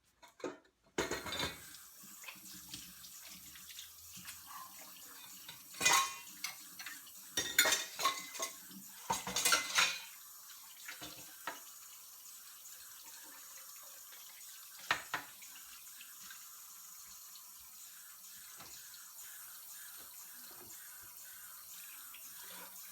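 Kitchen tap running into a sink while dishes are washed, with several loud clatters of bowls and utensils in the middle stretch and one more later.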